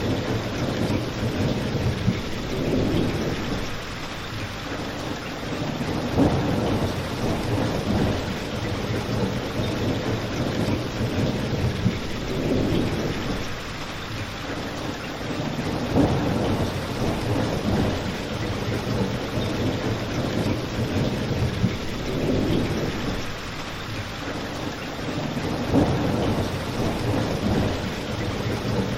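Steady rain with a low rumble that swells and fades every few seconds, typical of a thunderstorm ambience. A brief sharp crack sounds about every ten seconds.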